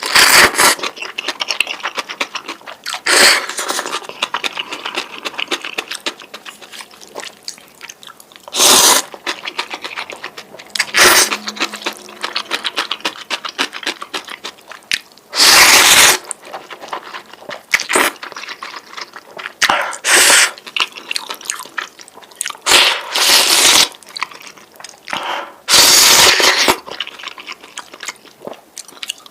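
A person slurping noodles in about ten loud bursts of around a second each, with wet chewing and smacking between them.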